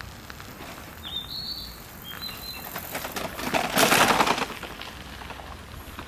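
An unidentified bird calling high in the trees: a short high call about a second in, then a few brief high notes. About four seconds in comes a louder burst of noise lasting about a second, the loudest sound here.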